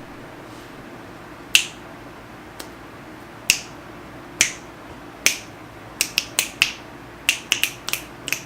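Sharp snapping clicks over a steady low hum. Four come spaced about a second apart, then about a dozen follow in quick succession near the end.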